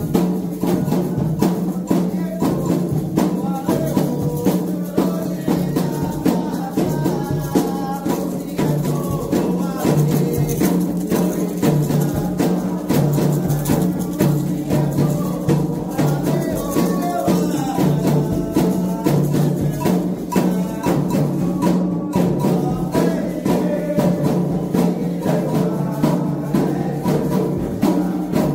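Candomblé ritual music: atabaque hand drums and shaken and struck percussion keep up a fast, steady rhythm under voices singing a chant for the orixás.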